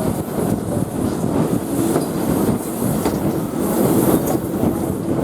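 Carriages of a steam-hauled retro train rolling along the track: a steady rumble with occasional clicks from the wheels.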